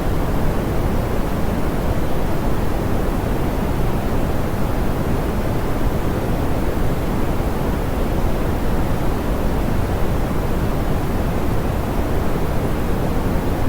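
Soft, smoothed pink noise: a steady, even hiss, fuller in the low end and softer in the highs.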